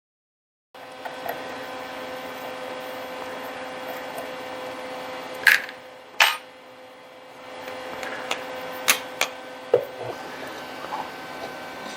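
Scattered sharp metallic clicks and clinks of hand tools and small parts while a drill-press spindle assembly is being taken apart, over a steady electrical hum.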